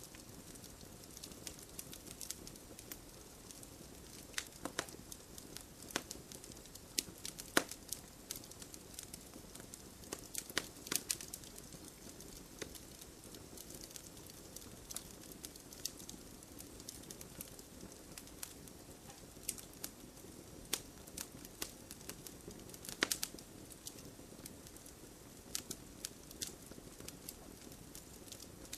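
Wood fire crackling and popping at irregular intervals over a steady low hiss, with a few louder pops standing out.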